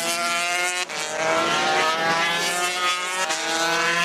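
MotoGP racing motorcycle's 990 cc four-stroke engine accelerating hard, its pitch climbing, dropping at a gear change about a second in and climbing again, with another shift near the end.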